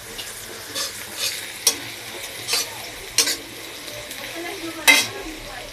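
Chicken frying in a pan with a steady sizzle, stirred with a spatula that scrapes the pan several times, the loudest stroke near the end.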